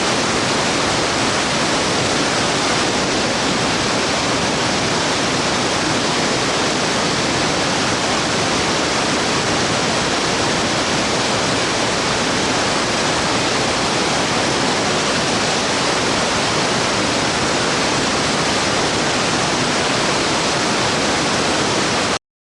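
Waterfall rushing with a steady, loud roar of falling water, cutting off suddenly near the end.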